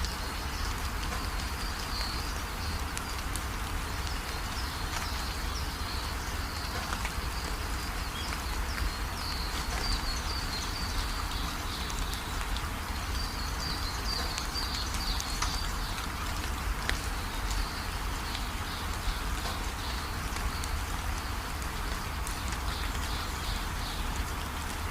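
Steady rainfall hiss with a low rumble underneath, and repeated bouts of rapid, high-pitched chirping calls over the rain.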